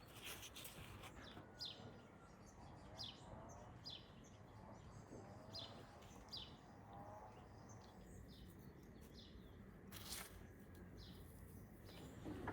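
Faint bird chirps over quiet outdoor ambience, with a brief rustle about ten seconds in.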